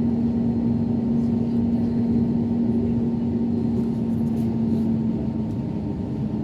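Airbus A321neo airliner running with a steady rumble and one steady low hum that eases slightly near the end.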